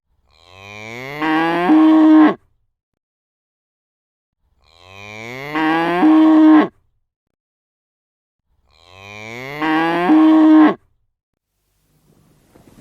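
A cow mooing three times, the same call repeated about every four seconds. Each moo rises in pitch and ends on a loud held note that cuts off sharply, with dead silence between.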